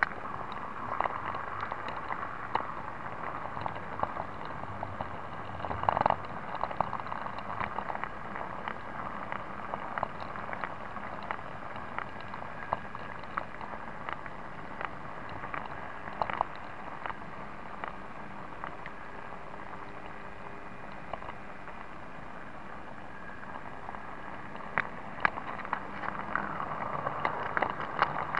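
009 narrow-gauge model train running along the track: a steady running whir with many irregular clicks and ticks from the wheels on the rails, louder clusters about six and sixteen seconds in.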